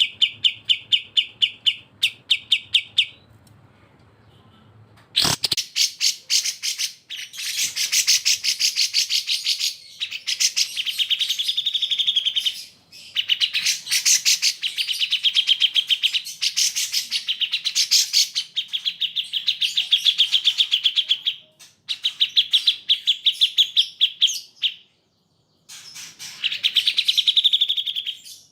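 Cucak jenggot and kapas tembak songbirds singing: long runs of fast, rapid-fire chattering notes, broken by short pauses, with a quieter gap of a couple of seconds soon after the start and a brief silence near the end.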